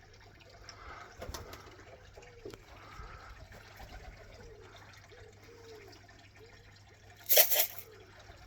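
Pigeons cooing softly, a run of low arching coos. Near the end comes a brief, loud rattling burst.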